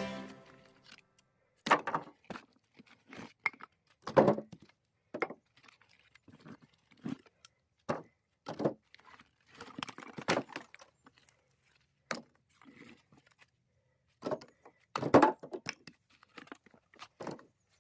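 Irregular wooden knocks and thunks, about a dozen separate hits spaced a second or more apart: split firewood being worked and handled.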